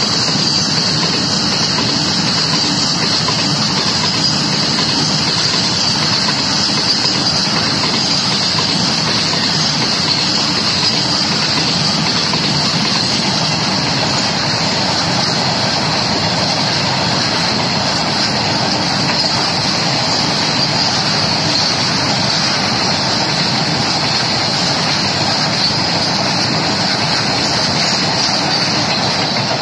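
Loaded BCN covered goods wagons of a freight train rolling past at speed: a steady rumble and hiss of wheels on the rails that holds without a break.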